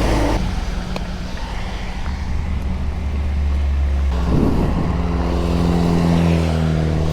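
A motor vehicle engine running steadily, its note shifting and growing stronger about four seconds in.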